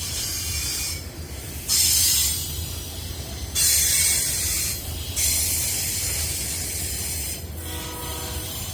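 A train running past with a steady low rumble, and loud bursts of high hiss that come and go abruptly several times. A steady pitched tone sets in near the end.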